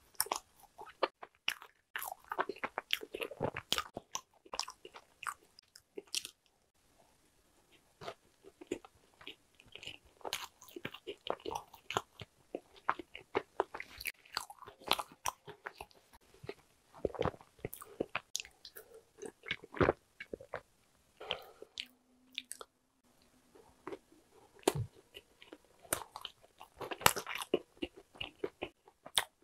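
Close-up mouth sounds of chewing Korean walnut cakes (hodugwaja): irregular crunching and soft chewing of the crisp cake shell and walnut pieces, with a couple of short pauses.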